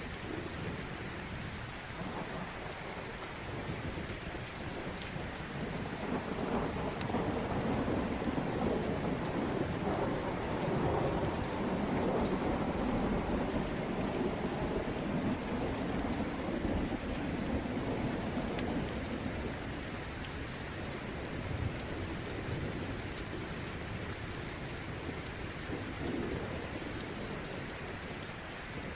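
Steady rain with a long roll of thunder that swells about six seconds in and slowly dies away over the next fifteen seconds or so.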